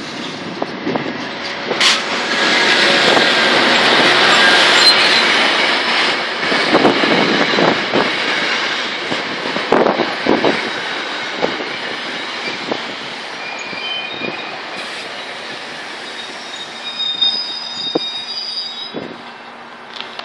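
Diesel-hauled commuter train passing close by and slowing to a stop at the platform: loud rolling rumble, wheels knocking over rail joints, then high-pitched wheel and brake squeal in the last few seconds as it comes to a halt.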